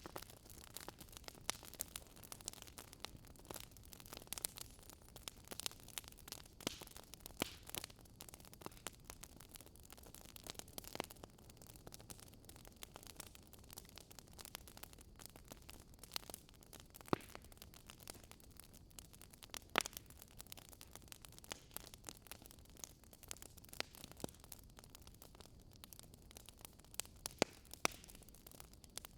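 Wood fire crackling: irregular sharp pops and snaps over a soft steady hiss, a few louder pops scattered through.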